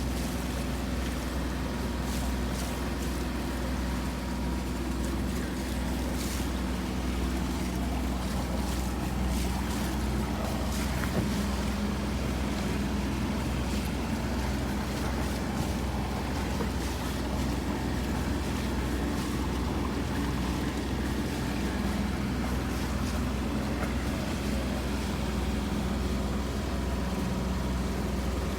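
A boat engine running steadily, a constant low drone, with wind and water noise over it.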